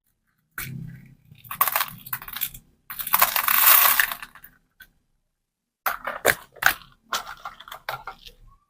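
Plastic candy packaging being handled and opened by hand. It starts with crinkling, then comes a longer dense crackle near the middle, and it ends with a run of sharp plastic clicks and snaps.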